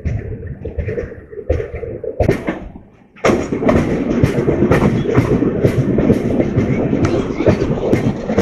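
Passenger train wheels clattering over the rail joints, a rapid clickety-clack over a running rumble. About three seconds in, after a brief dip, the noise jumps suddenly much louder.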